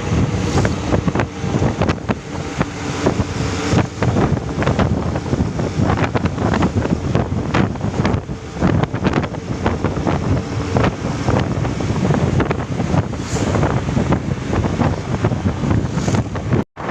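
Truck running at speed: a steady engine drone under heavy wind noise buffeting the microphone. The sound cuts out for an instant near the end.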